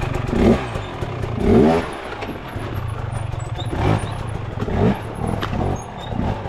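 Dirt bike engine idling with about five quick throttle blips, each a short rising rev that drops back to idle; the loudest comes about a second and a half in.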